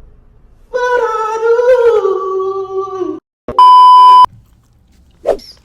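A person's voice holding one long drawn-out sound for about two and a half seconds, then a loud, steady, single-pitched beep lasting under a second.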